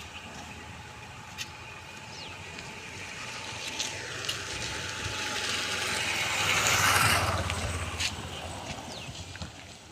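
A motor vehicle passing by: its engine and tyre noise grow louder over several seconds, peak about seven seconds in, then fade away.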